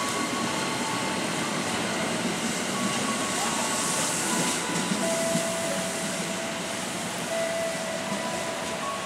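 Electric commuter train running through the station amid the hiss of heavy rain. Thin, steady whining tones come and go over the noise.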